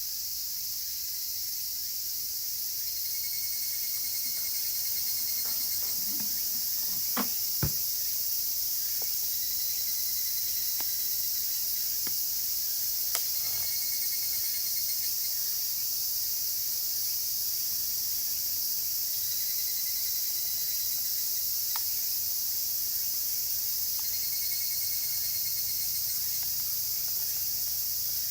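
A dense chorus of cicadas makes a steady high hiss, with higurashi (evening cicadas) calling in short pulsed phrases every few seconds. A campfire crackles with a few sharp pops, two close together about seven seconds in.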